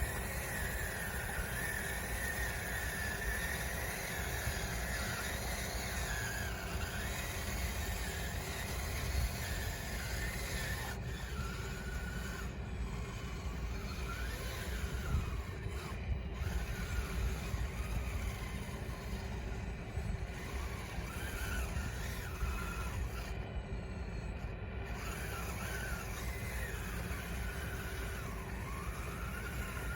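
Electric drive motors and gearing of a radio-controlled model bulldozer whining, the pitch rising and falling as the throttle changes, over a steady low rumble.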